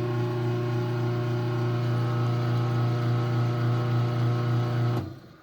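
Craftsman 139.57915 garage door opener's electric motor running steadily through a close cycle, a low, even hum that cuts off suddenly about five seconds in as the opener reaches its close limit and stops.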